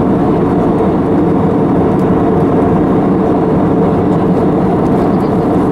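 Steady engine and airflow drone inside a passenger airliner's cabin in flight.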